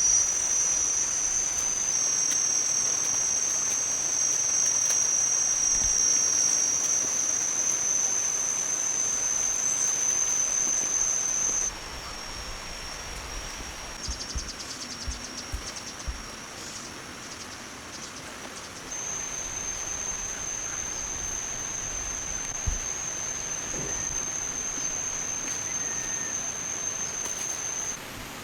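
Insects trilling in a steady, high-pitched drone. It drops abruptly in level about twelve seconds in, gives way to a fast pulsing trill for a couple of seconds, and comes back steady and louder about nineteen seconds in.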